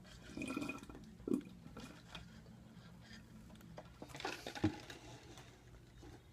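Faint wet chewing of a mouthful of several pieces of gum chewed together, with a few soft knocks and a short rustle.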